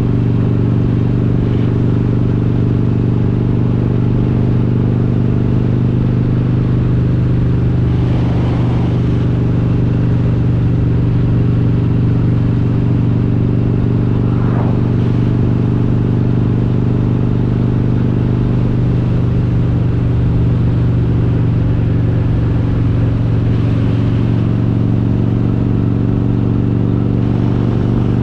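Harley-Davidson Road King's V-twin engine, built up with an S&S 95-inch big-bore kit and Super Stock cylinder heads, running under way at a steady speed, its exhaust note holding an even pitch.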